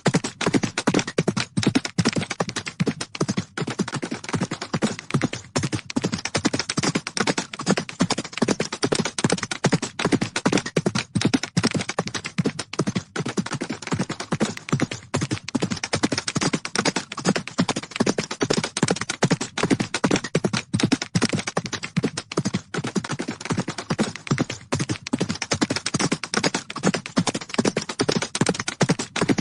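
Horses galloping: a rapid, continuous run of hoofbeats.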